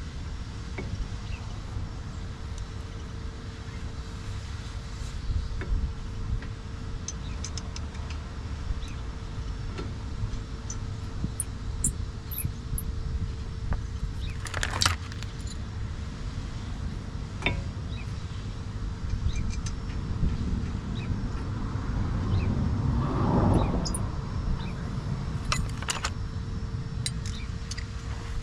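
Scattered light metallic clinks and clicks of tools and brake parts being handled, over a steady low background rumble and a faint steady hum; a louder clatter about halfway through and a swelling rush of noise later on.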